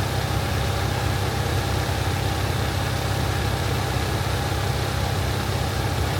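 K-swapped Honda Civic's engine idling steadily on the dyno, a constant low running sound with no revving.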